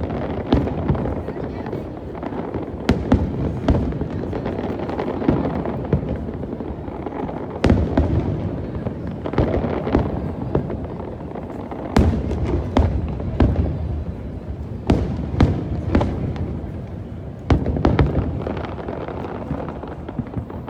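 Aerial fireworks bursting in a long display: sharp bangs every second or so, some in quick clusters, over a continuous rumble.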